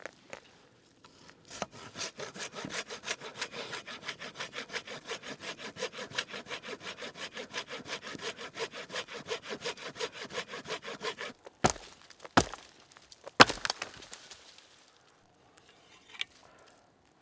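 A hand saw cutting through wood with quick, even back-and-forth strokes, about five a second. The sawing stops about eleven seconds in and is followed by three sharp cracks, the third the loudest.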